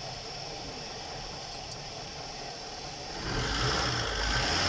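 Car engine idling steadily, growing louder with a deeper rumble about three seconds in.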